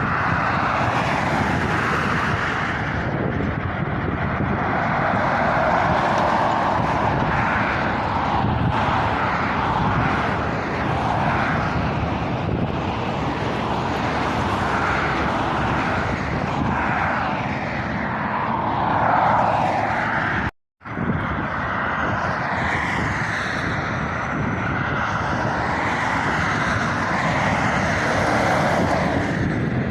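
Steady road traffic passing, lorries and cars, with engine and tyre noise rising and fading as each goes by. The sound cuts out completely for a moment about two-thirds of the way through.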